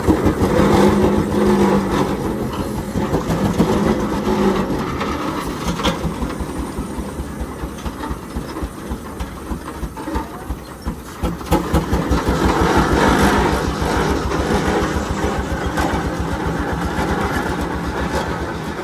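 Frick steam traction engine running, its exhaust beating in a rapid, steady chuff that grows louder about twelve seconds in. The uploader thought it seemed to be struggling a bit.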